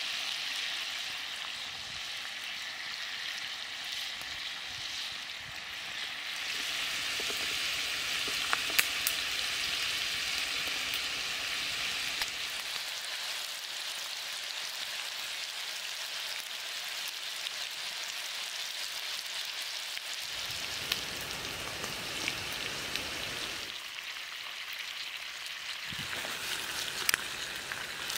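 Pork-stuffed green pepper rings frying in hot oil in a pan, a steady sizzle with a few sharp pops.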